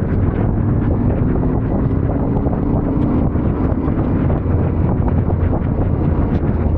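Yamaha Ténéré 700 motorcycle riding along, its parallel-twin engine note rising slightly about two seconds in, under heavy wind buffeting on the microphone.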